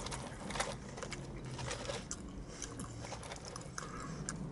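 A person chewing french fries close to the microphone, with scattered small mouth clicks and smacks.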